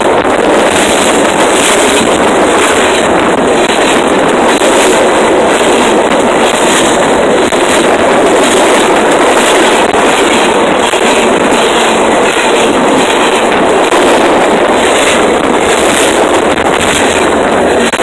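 Train passing directly over a phone lying on the track, heard from beneath the cars: a loud, steady rolling noise of wheels on rail with a regular clatter running through it.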